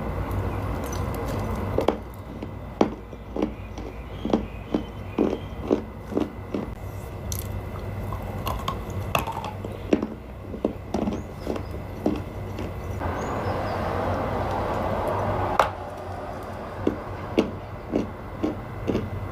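Dry clay crunching: a run of sharp, brittle crunches about two a second, over a steady background hum.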